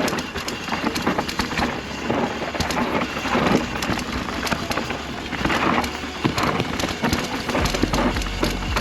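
Mountain bike descending a dirt trail: tyres crackling over loose dirt and rock, with the bike rattling and clicking over the bumps. The tyres are worn out and have no grip. A low steady hum comes in near the end.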